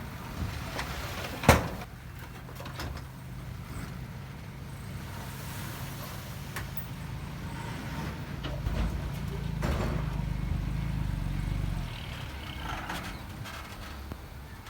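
Heavy diesel earthmoving machinery running with a steady low hum. A single sharp bang comes about a second and a half in. The engine grows louder from about halfway through for several seconds, then eases back.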